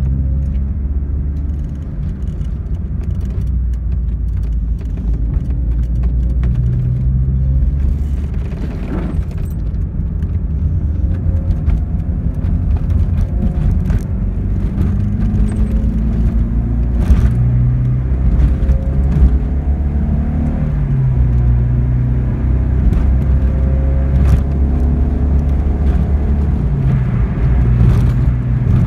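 Alfa Romeo 33 1.3's 1351 cc flat-four boxer engine with twin twin-choke carburettors, running on new Bosch spark plugs, heard from inside the cabin while driving. The engine note climbs and drops back several times, with a few light knocks along the way.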